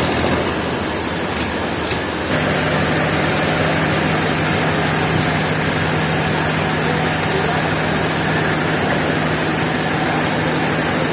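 An engine running steadily, with a steady low hum that sets in about two seconds in.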